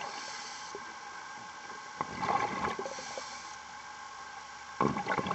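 A scuba diver's exhaled breath bubbling out underwater, two bursts of gurgling about three seconds apart over a steady hum.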